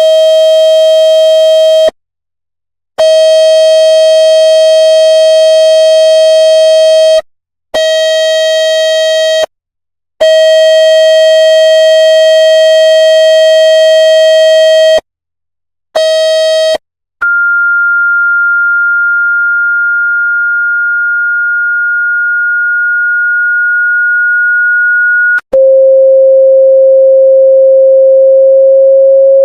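Loud electronic tones played to drive water out of a phone speaker. First a buzzy tone with many overtones, broken by short silences, then about halfway through a steady higher pure tone, and near the end a lower tone that rises slightly in pitch.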